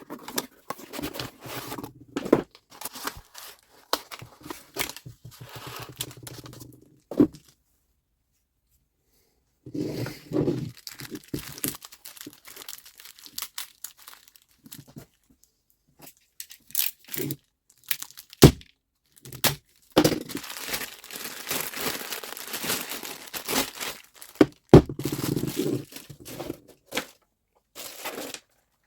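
Irregular scraping, rustling and clicking of hands working on the saw's parts, with a few sharp knocks and several abrupt cuts to silence.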